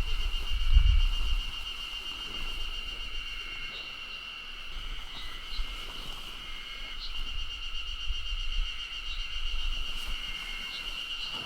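Steady high-pitched trilling of insects, with a few short bird chirps over it. Wind buffets the microphone for about the first second and a half.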